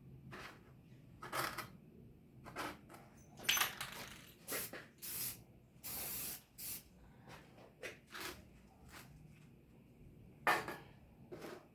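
A series of about a dozen short hissing bursts at irregular intervals, most under half a second. The longest comes about halfway through, and the loudest are a little before that and near the end.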